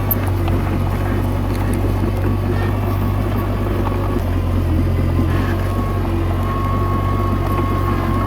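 Komatsu D21A bulldozer's diesel engine running steadily, a constant low drone with a thin steady whine above it.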